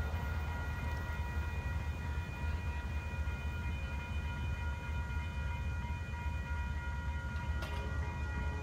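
A train running, heard as a steady low rumble with several faint, steady high tones over it.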